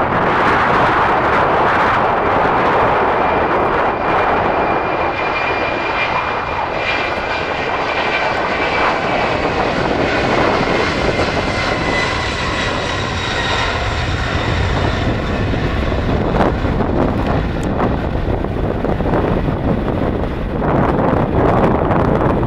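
Jet airliner engines passing: a steady broad rush with a high whine from the engines building and fading in the middle, and wind on the microphone.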